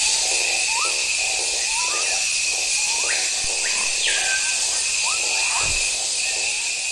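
Tropical rainforest ambience: a dense, steady insect chorus with a high buzzing tone, and birds calling with short rising notes about once a second. One long falling whistle comes about four seconds in, and the sound begins to fade near the end.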